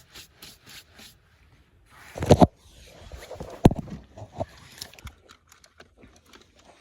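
Handling noises: scattered clicks and light scrapes, with a loud pair of thumps a little over two seconds in and a single sharp knock about a second and a half later.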